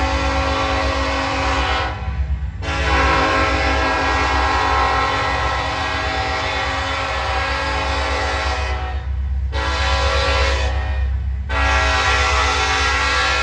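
Diesel freight locomotive's multi-note air horn blowing the grade-crossing signal: a long blast, a break about two seconds in, a second long blast, a short one, and a final long blast, over the low rumble of the moving train.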